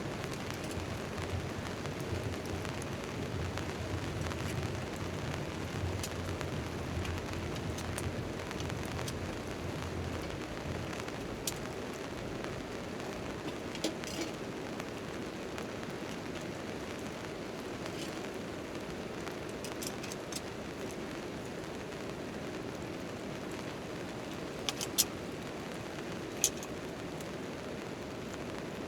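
Steady rain falling on a tent tarp, with a low rumble under it for the first ten seconds or so. A campfire gives a few sharp crackles, two of them about 25 seconds in and another soon after.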